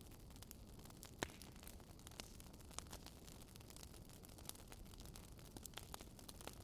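Wood campfire crackling softly, with scattered sharp pops, the loudest about a second in, over a steady low rush of the river.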